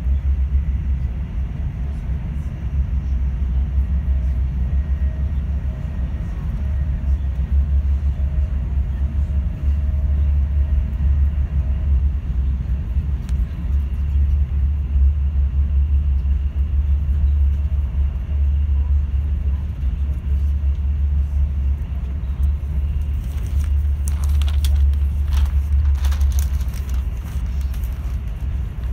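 Steady low rumble of a passenger train running at speed, heard from inside the carriage, with a few brief clicks or rattles a few seconds before the end.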